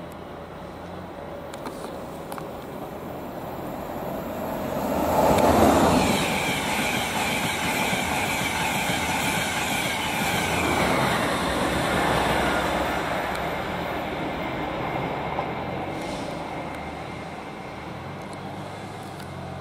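Electric express train, an InterCity 225 set, passing through the station at speed. It swells to its loudest about six seconds in as the front passes, then the coaches rush by with high whining tones before the sound slowly fades away.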